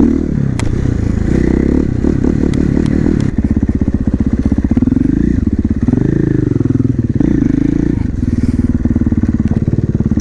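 Supermoto motorcycle engine running with an even firing beat, revving up and easing back off about halfway through.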